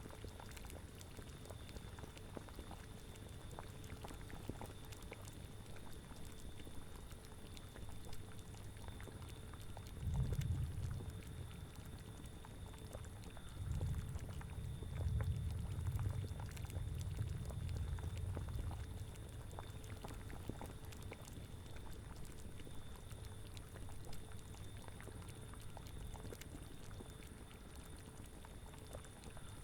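Witch's cauldron bubbling steadily at the boil, with a constant stream of small bubbling pops. Low gusts of wind swell up twice, briefly about a third of the way in and for several seconds around the middle.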